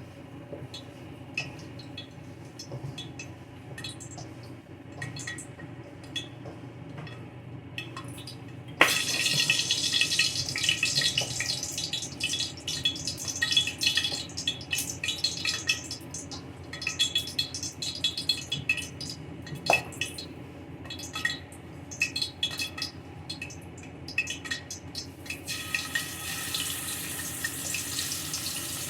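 Kitchen work sounds: light clinks of dishes and utensils, then about nine seconds in a sudden, loud, crackling rush of noise sets in. Near the end a brighter steady rush takes over, a tap running into the sink.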